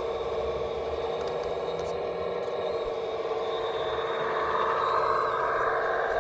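Steady electric motor and hydraulic pump whine of a radio-controlled scale construction model, with a second, higher whine that grows louder about four seconds in.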